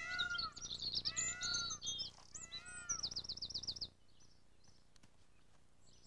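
Birds chirping in short, arched, repeated notes, with a rapid high trill about three seconds in. The calls stop about four seconds in.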